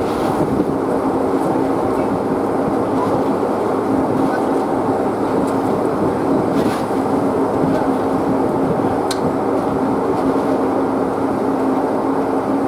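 Subaru flat-four auxiliary engine of an FH70 155 mm howitzer running steadily as the gun drives under its own power, a steady low drone with a held hum.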